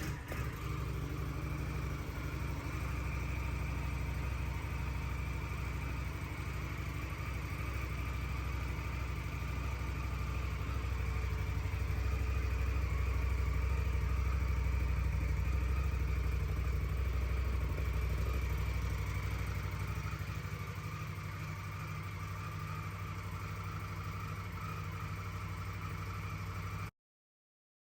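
The 2024 Indian Scout 113's 1,133cc liquid-cooled V-twin engine idling steadily. It grows a little louder for several seconds in the middle and stops suddenly about a second before the end.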